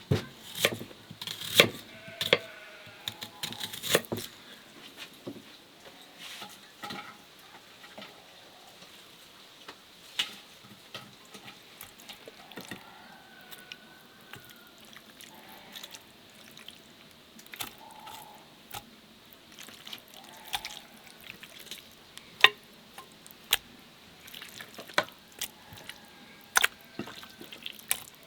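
Water dripping and splashing, with scattered small clicks and knocks of kitchen handling.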